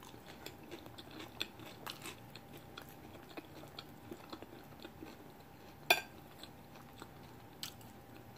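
A person chewing a mouthful of salad, with small wet mouth clicks throughout. There is one sharper click about six seconds in.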